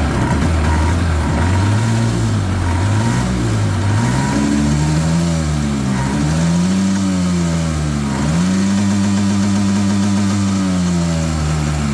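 Two outboard motors running together. One holds a steady idle while the other is revved up and down several times, then held at higher revs for a few seconds near the end before easing off.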